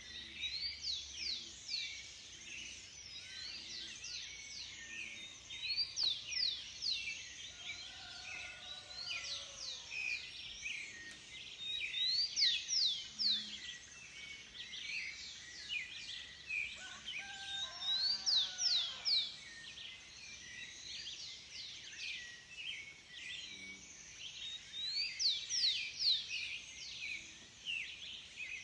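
Dawn chorus: many birds chirping and singing at once, with quick, rapidly repeated high notes throughout. A lower, drawn-out call sounds twice, about a third and about two-thirds of the way through.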